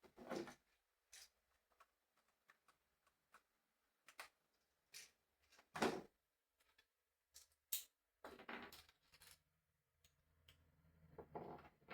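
Plastic LEGO pieces being handled and pressed together: faint scattered clicks, with a few brief louder rustles of pieces being moved.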